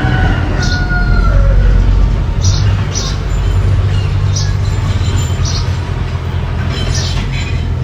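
Mini bulldozer's engine running steadily under load, with short high-pitched metallic squeals or clanks, typical of steel tracks, every half second to a second.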